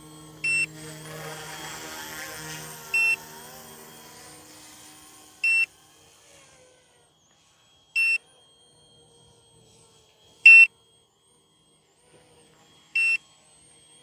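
Short high electronic warning beep repeating about every two and a half seconds from the Yu Xiang F07 RC helicopter's electronics, for a reason the pilot doesn't know. Under it the small helicopter's motor and rotor hum rises and fades over the first few seconds, then carries on faintly.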